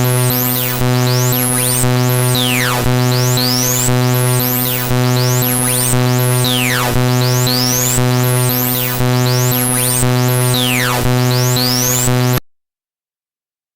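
Loud, harsh synthesized electronic tones played by the malware program, a dense buzzing chord with sweeping chirps that repeats about once a second. Near the end it cuts off abruptly into silence.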